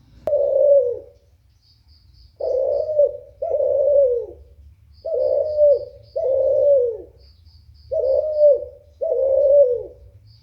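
A puter (Barbary dove) cooing: one coo, then three phrases of two coos each. Every coo falls in pitch at the end. A faint, quick series of high pips comes before each phrase.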